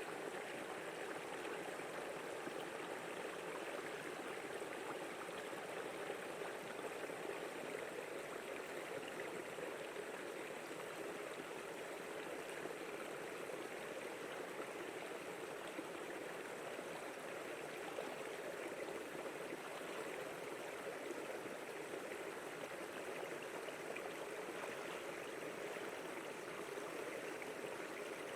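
Water flowing steadily, an even rushing sound with no breaks.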